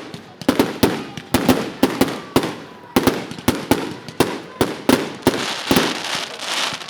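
Fireworks going off in quick succession: many sharp bangs, several a second, each trailing into crackle and echo.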